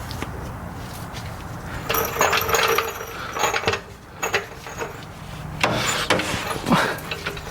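Metal parts and tools clanking and jingling in two bouts of a second or two each, over a low steady hum, as hands work on a car's drivetrain.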